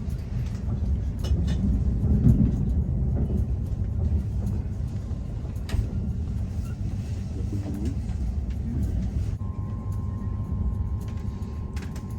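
Passenger train running, a steady low rumble with scattered light clicks. A thin steady tone joins about nine seconds in.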